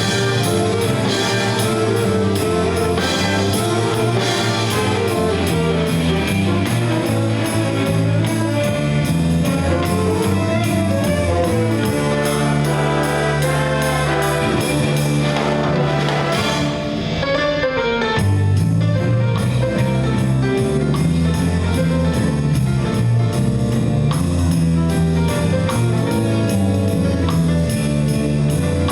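Jazz ensemble playing live: brass section with guitar and drum kit keeping a steady beat. The cymbals drop out for a moment about two-thirds of the way through.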